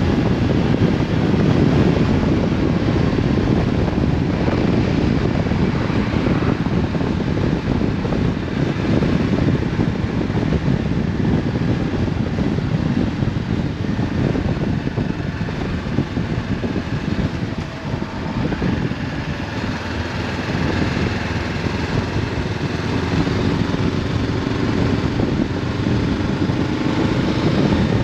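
Honda CB500F's parallel-twin engine running through an Akrapovic exhaust while riding, mixed with steady wind rush over the helmet-mounted microphone. The sound dips briefly about two-thirds of the way in.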